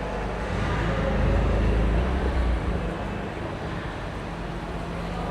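A car engine rumbling close by, louder for about two seconds and then easing off into steady traffic noise.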